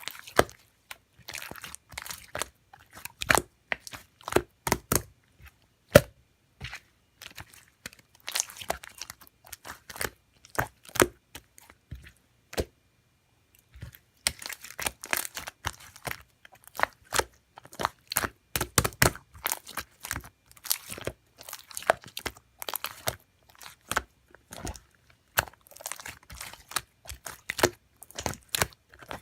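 Slime being squeezed and stretched by hand, giving a dense, irregular run of sharp clicks and pops, with a short pause just before the middle.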